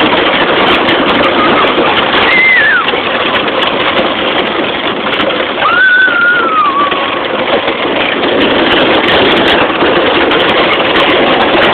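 A child's ride-on tractor running steadily, a dense, loud noise, with two short high gliding sounds about two and six seconds in.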